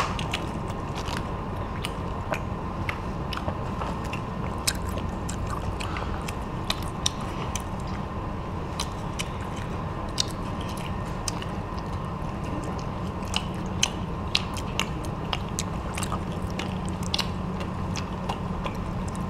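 Children biting and chewing crispy batter-fried shrimp and fried sausages: many small, irregular crunches over a steady background hum.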